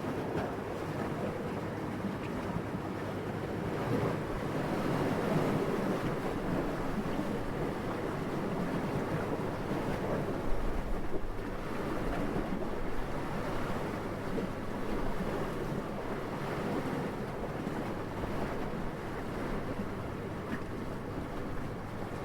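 Steady, gentle wind noise that swells and eases slowly, with a brief louder moment about halfway through.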